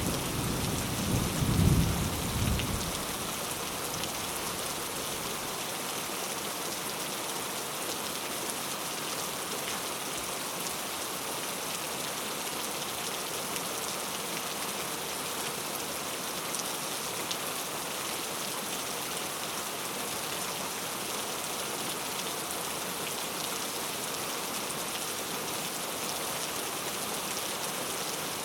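Steady rain falling, an even hiss, with a low rumble of thunder dying away in the first few seconds.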